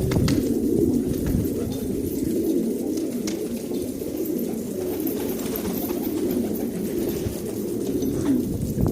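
A flock of pigeons cooing, many low calls overlapping without a break.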